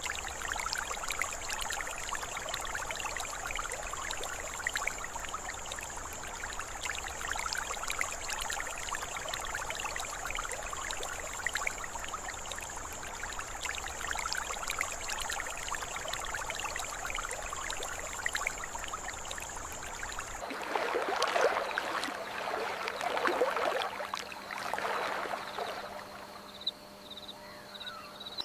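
Flowing stream water trickling over a steady high-pitched insect drone. About twenty seconds in it cuts abruptly to another recording: a few louder swelling rushes over a steady low hum.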